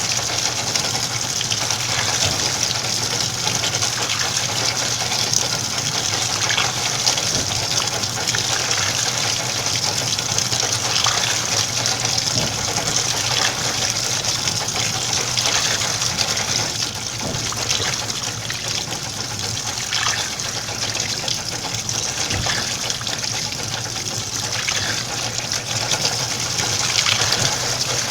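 Washing machine filling with water: a steady rushing gush of incoming water, with a low hum underneath.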